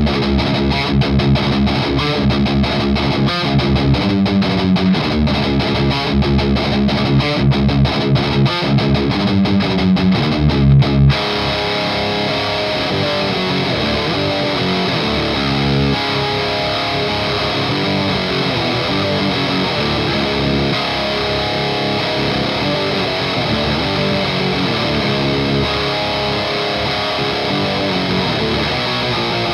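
Distorted electric guitar through a Noise Pollution Skull Driver V2 Evolution overdrive pedal, playing a choppy, rhythmic riff. About eleven seconds in, it changes to chords left to ring out and sustain.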